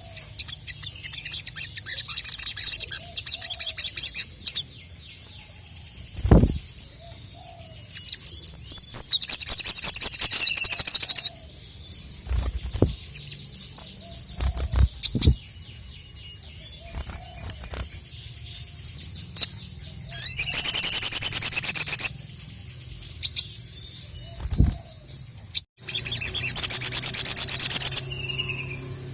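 Sogok ontong (sogon) bird singing its challenge song used to call out a rival: loud bursts of very fast, high rattling trills lasting a couple of seconds each, four times, with short sharp chips in between. A faint low steady hum runs underneath.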